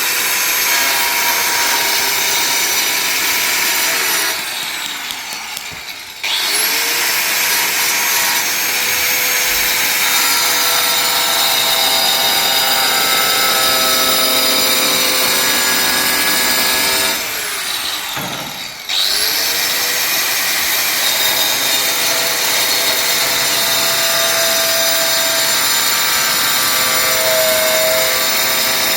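Electric power tool running at full speed. Twice it is let off, winding down with falling pitch for about two seconds, then switched on again and spinning straight back up.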